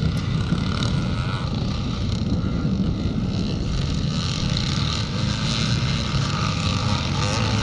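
Vintage motocross bikes racing on the track, their engines running with a steady mixed drone.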